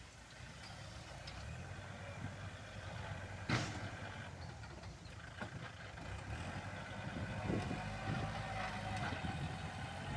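Kubota L47 tractor's diesel engine running steadily, with a sharp click about three and a half seconds in.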